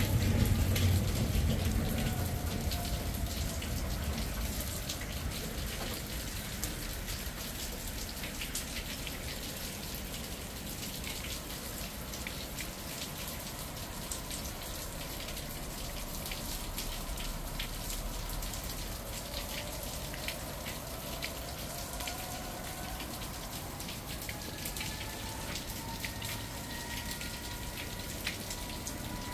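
Heavy rain falling, with dense raindrop ticks hitting surfaces close by. A low rumble is loudest at the start and fades over the first several seconds, and faint rising tones come in near the end.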